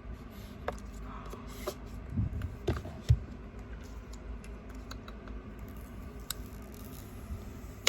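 Light clicks, taps and rustles of a smartphone box and its packaging being opened and handled by hand, with one louder knock about three seconds in.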